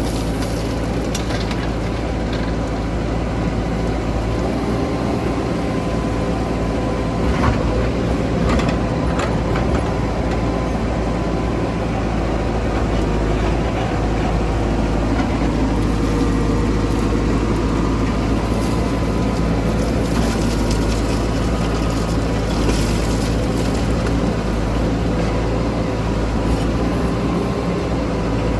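Backhoe loader and tractor diesel engines running steadily, with a few short knocks about a quarter of the way in and again past the three-quarter mark.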